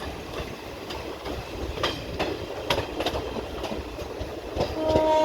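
Passenger train coaches rolling along the rails: a low rumble with irregular clicks and clacks of the wheels over the rail joints. Near the end, a louder steady tone of several pitches comes in.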